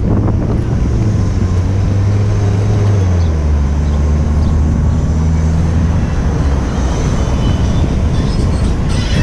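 Street traffic heard while cycling, with wind rushing on the action camera's microphone. A nearby motor vehicle's engine gives a steady low hum that drops in pitch about three seconds in.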